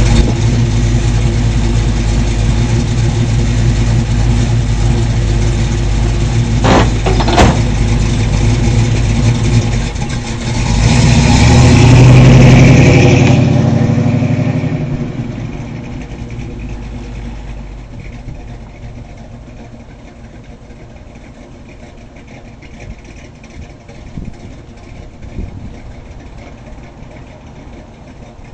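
1979 Chevrolet Camaro engine running loudly, with two sharp pops about seven seconds in. Its sound swells to a peak just before halfway, as in a rev, then falls off to a much quieter steady idle for the rest.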